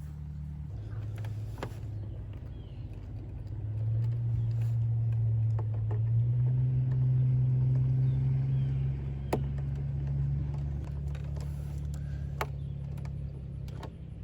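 A motor vehicle engine running with a steady low hum that grows louder about four seconds in, rises slightly in pitch, and eases off again after about ten seconds, with a few light clicks.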